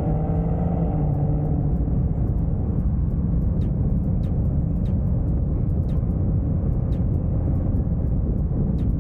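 Car engine running with a steady low rumble, as heard while driving. A clear engine note holds for the first couple of seconds, then gives way to a broad low rumble.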